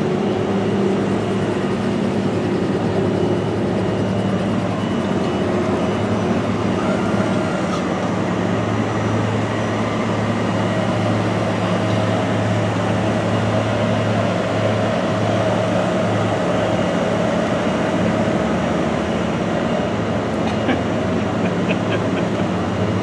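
Steady machine noise with a constant low hum and a fainter higher tone, running evenly without a break.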